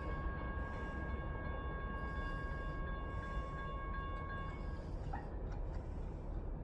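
A train passing with a steady low rumble, and a steady high-pitched ringing tone over it that cuts off about five seconds in.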